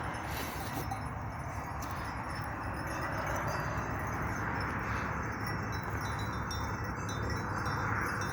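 Many sheep bells clinking and jangling without a break as a flock of Chios sheep grazes.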